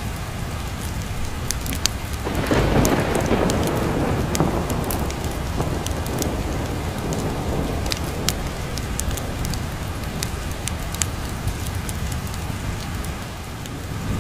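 Steady rain with a roll of thunder that swells about two seconds in and slowly dies away, over scattered sharp crackles of a wood fire in a fireplace.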